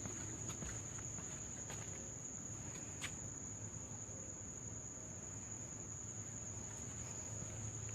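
Insects trilling in a steady, unbroken high-pitched drone, with one faint click about three seconds in.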